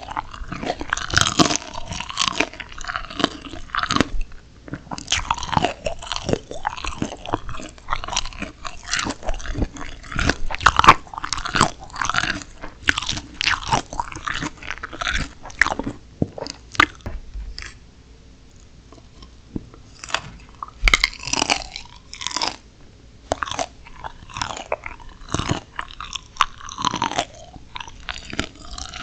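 Close-miked crunching bites and chewing of steamed shrimp and spicy chilli pepper: crisp cracks and wet crunches come in quick runs, with a short lull about two-thirds of the way through.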